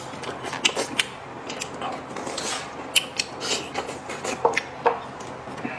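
Tableware at a meal: chopsticks or cutlery clicking and knocking against bowls and plates in short, irregular clicks, with eating noises between them.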